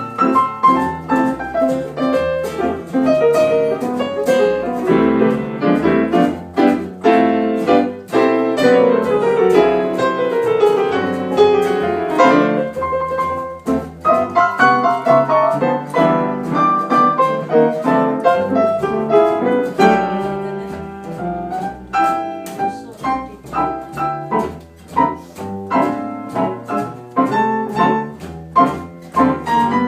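Piano playing a busy passage of quick notes and chords.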